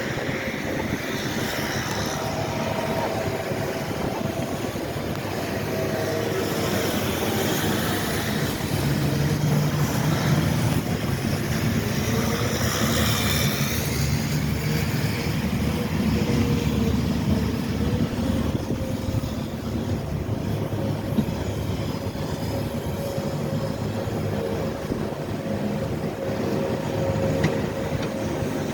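Engines of snow-clearing machinery running steadily, with a constant mechanical rumble and a held tone that shifts a little in pitch.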